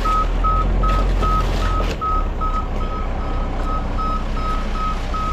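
A vehicle's reversing alarm beeps steadily at one pitch, about two and a half beeps a second, over an engine running. The engine's low rumble eases a little about two seconds in.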